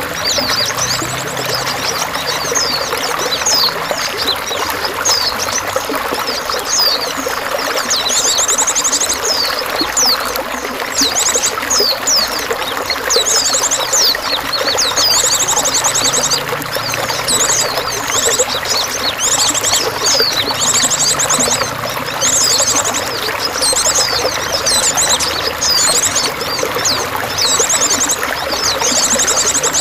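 Steady trickling, running water with small songbirds calling over it: many short, high chirps and sweeping notes and rapid buzzy trills, repeated every second or two.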